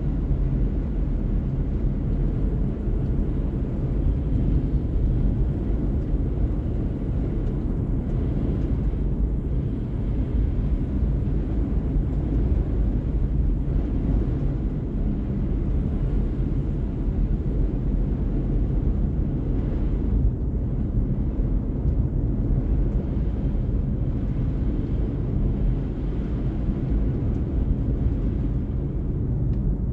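Steady low rumble of a car being driven, engine and tyre noise holding an even level throughout, with no distinct knocks or events.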